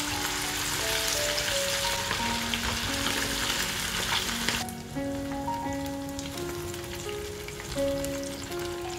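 Chicken frying in hot oil, a dense sizzle that abruptly drops to a quieter, sparser crackle about halfway through, under soft background music.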